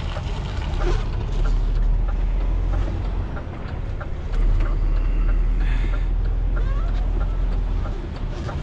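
Semi truck's diesel engine running at low revs during slow reversing manoeuvres, heard from the cab; the engine note rises about a second in and again at about four seconds.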